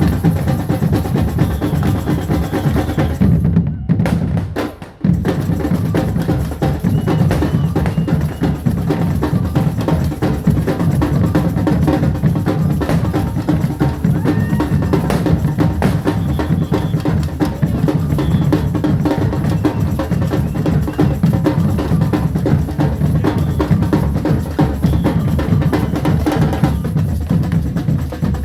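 A group of drums playing together, bass and snare drums beating continuously. The sound briefly drops away about four seconds in.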